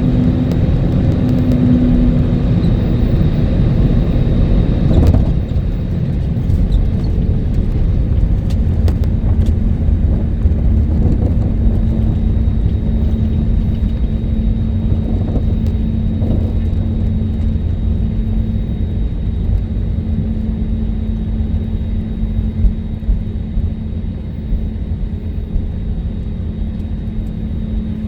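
Cabin noise aboard an Airbus A320neo rolling along the ground after landing: a steady low rumble from the wheels and engines with a constant hum, easing slightly about five seconds in.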